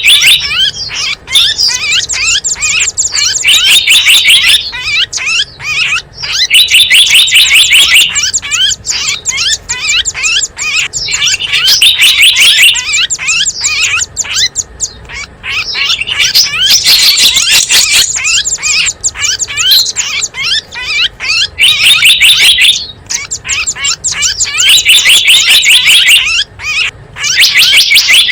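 Recorded calls of small songbirds played as a bird lure: dense, rapid, high chirping and trilling in bursts of one to two seconds, repeating again and again with short breaks.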